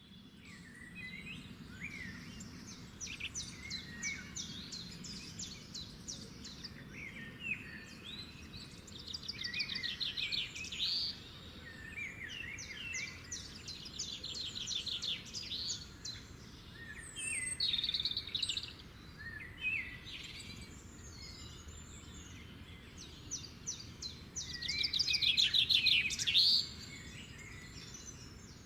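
Songbird singing in a garden: a series of varied song phrases with fast trills and short whistled notes, repeated every few seconds, the loudest phrase near the end, over a faint steady background hum.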